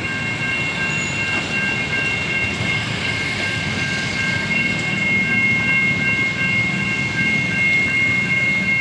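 Level-crossing electronic warning siren from a Siemens crossing package, sounding a steady high multi-tone alarm, typical of US-style crossings. Underneath it runs the noise of a passing train, louder in the second half.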